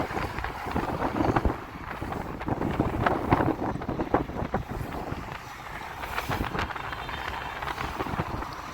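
Strong headwind buffeting the microphone of a camera carried on a moving bicycle: a gusty, uneven rumble and rush of wind noise that rises and falls.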